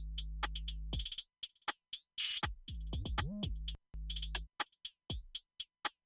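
Electronic drum beat played back from Native Instruments Maschine, with sharp hi-hat and snare hits over long sustained bass notes. One bass note glides up in pitch a little after three seconds in.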